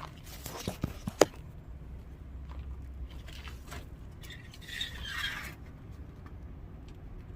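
Metal tape measure being handled: a few sharp clicks about a second in and a short scraping rustle around the middle, over a steady low rumble.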